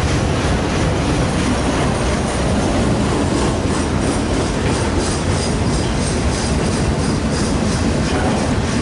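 Freight train cars rolling past at close range: loud, steady wheel and rail noise with a repeating clickety-clack of wheels over rail joints.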